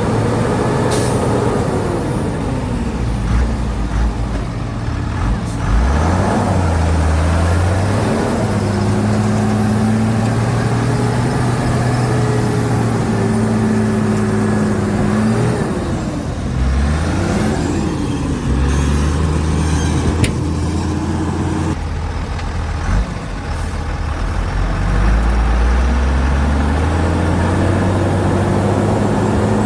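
Shantui DH17C2 bulldozer's diesel engine running hard. Its revs sag and pick back up several times, with a sharp clank about a second in and another near two-thirds of the way through.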